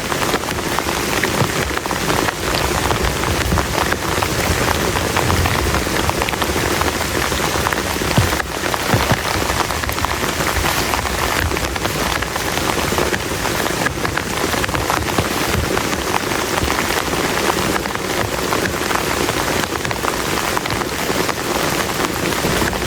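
Heavy rain falling steadily, a dense patter of drops striking close by with no let-up.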